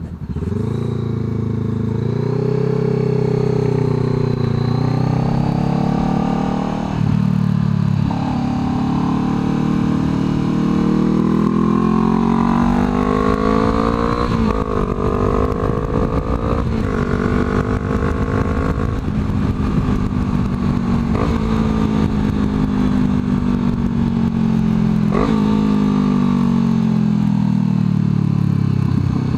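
Harley-Davidson V-twin running loud through a Coffman's exhaust with the baffle removed, under way on the road. Its pitch climbs as it accelerates and drops again, with several abrupt breaks as gears change.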